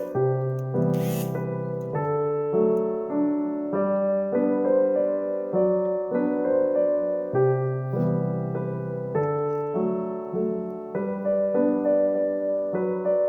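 Background piano music: a slow, gentle melody of held notes over a sustained bass.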